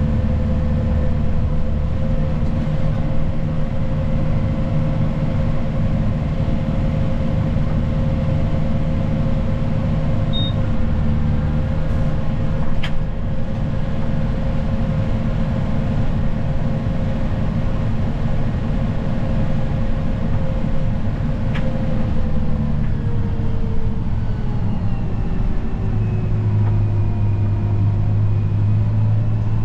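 Snow plow vehicle's engine running steadily with a low rumble, its whine dropping in pitch about three quarters of the way through.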